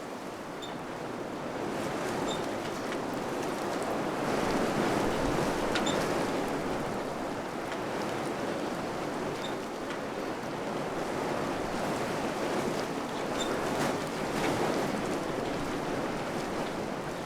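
Strong wind blowing in gusts, swelling and easing, with a few faint ticks and clicks.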